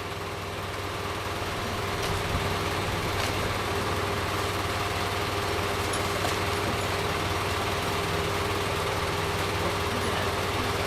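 A large engine running steadily at idle with an even hum. It grows a little louder over the first two seconds, then holds.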